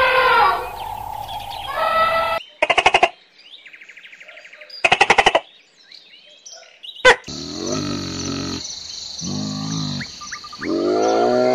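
A string of short farm-animal calls from separate clips. A pitched call fades out, then come two bursts of rapid pulsed chirping calls and a single sharp chirp, then several low calls like bleating over a steady high hum.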